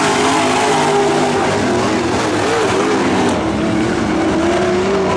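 Several dirt-track pro trucks' engines running around the oval together, their pitches rising and falling as they accelerate and lift.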